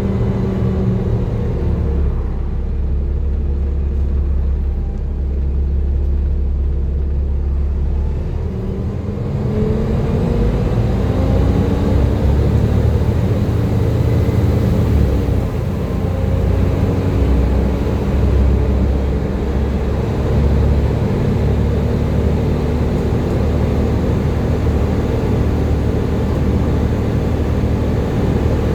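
Volvo B7TL double-decker bus's six-cylinder diesel engine, driven hard. A low rumble holds steady, then about eight seconds in the bus pulls away with the engine note rising. A brief break about fifteen seconds in sounds like a gear change, after which the engine runs on steadily under way.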